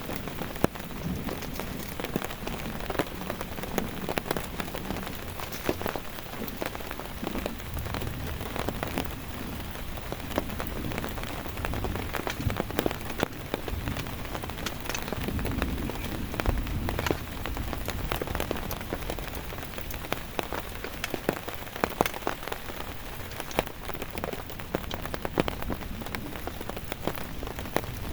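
Heavy rain falling steadily, with many sharp individual drops pattering close by and a low rumble swelling now and then.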